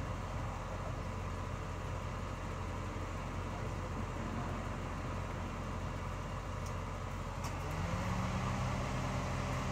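Steady low machine hum. About eight seconds in, a second droning tone rises and then holds steady.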